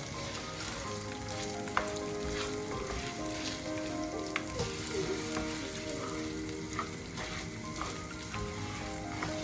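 Food sizzling as it fries in a pan, with a couple of sharp utensil clicks, under soft background music.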